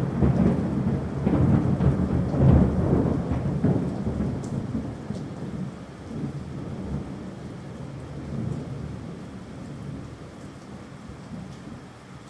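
A long roll of thunder, loud at first and fading away over about ten seconds, over steady rain.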